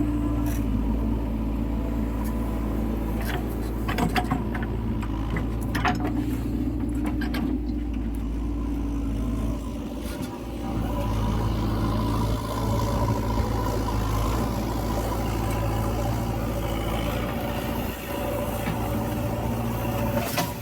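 Heavy diesel engine of a backhoe loader working, running steadily with a deep drone. Several sharp knocks come in a cluster a few seconds in.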